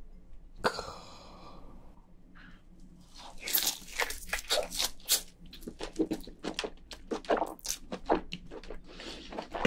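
Close-miked biting and chewing of soft boiled crayfish meat dipped in chili sauce: a dense run of wet, crunchy mouth noises that starts about three seconds in and keeps going.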